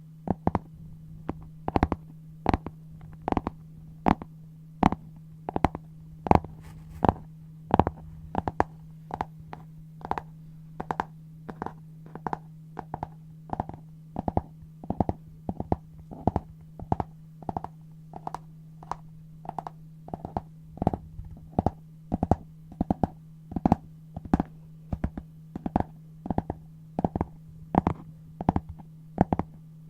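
Scissors cutting brown paper in quick, regular snips, about two a second, over a steady low hum.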